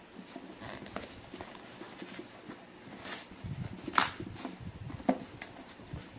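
Unpacking and handling noises: light rustling with scattered clicks and knocks of plastic and packaging. The sharpest click comes about four seconds in, with another about a second later.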